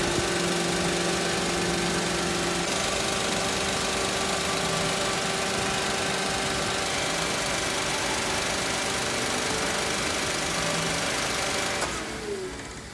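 A kei car's 660 cc three-cylinder engine idling steadily, with a constant hum. It fades away near the end.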